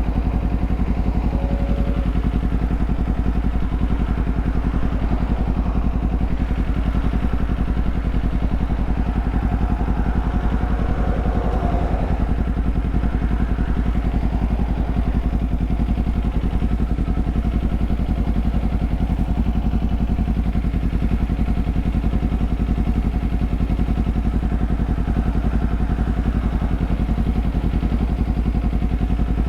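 Kawasaki Z400's parallel-twin engine running steadily at an unchanging pitch, with a brief swell of noise about ten seconds in.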